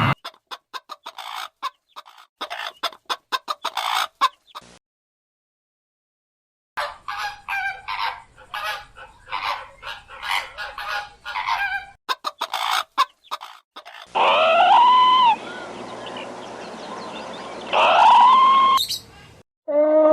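Chickens clucking in rapid short calls, broken by a silent gap about five seconds in, then two longer drawn-out calls about fourteen and eighteen seconds in.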